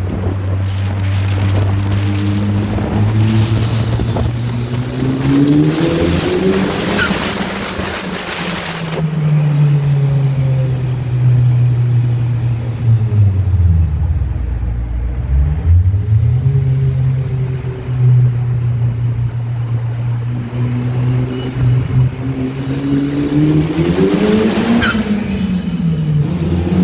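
Ariel Atom 4's turbocharged four-cylinder engine accelerating through the gears in a road tunnel, the pitch climbing and then dropping at each shift. It eases off about halfway through and pulls hard again near the end.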